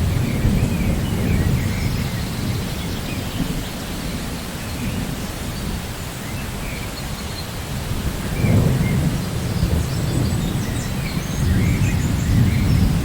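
Steady rain with low rolling thunder rumbling underneath. The rumble swells about two-thirds of the way in and again near the end.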